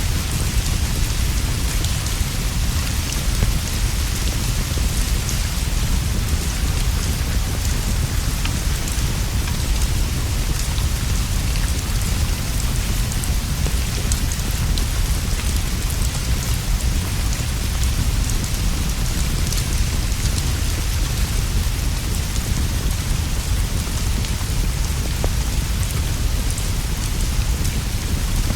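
Steady rain falling on leaves and a straw roof, over a constant low rumble, with scattered small ticks and pops.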